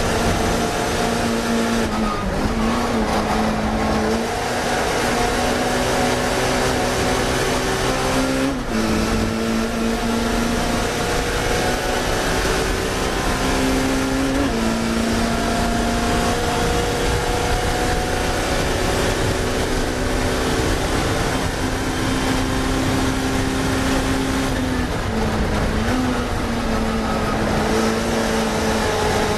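Onboard sound of a classic Mini racing car's engine held at high revs, with a few brief shifts in pitch at gear changes, over heavy road and wind noise.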